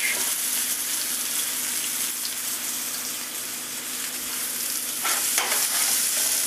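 Fingerling potatoes frying in a skillet, with a steady sizzle. About five seconds in there is a short scrape as the skillet is set down on another burner of the electric coil stove.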